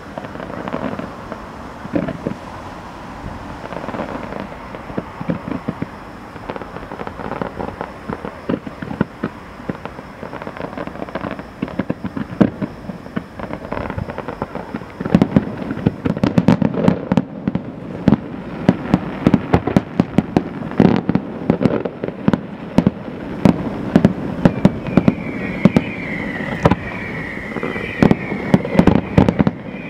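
Fireworks bursting in a rapid run of bangs and crackles, sparse at first and much denser and louder from about halfway. Warbling high whistles join near the end.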